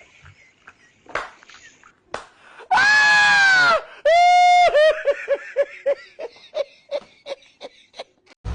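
A shrill, high-pitched scream lasting about a second, then a second cry that breaks into a run of short laughing pulses, about three a second, trailing off.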